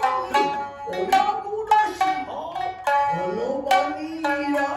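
Shinnai-bushi music: shamisen, main and higher-tuned uwajōshi, plucked in sharp, ringing notes under a jōruri chanter's voice that slides through drawn-out phrases and holds a long, wavering note in the second half.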